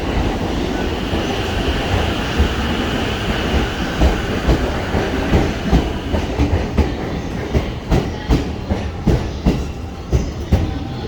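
JR East E231 series 0 electric commuter train pulling out of the platform. A high whine fades over the first few seconds, and the wheels clack over the rail joints in quick pairs as the cars roll past.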